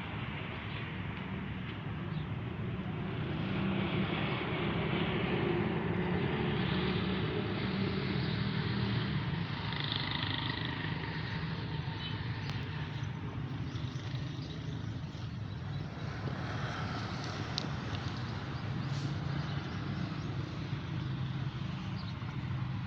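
Steady low rumble of a running engine, swelling a little a few seconds in and easing back.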